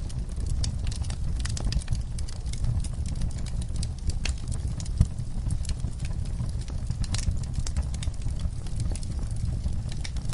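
Wood fire burning in a fireplace, a steady low rumble with irregular crackles and one louder pop about halfway through.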